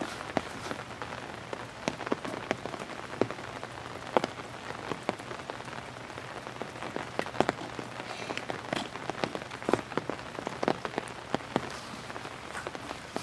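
Steady rain falling, with irregular sharp taps of drops hitting an umbrella.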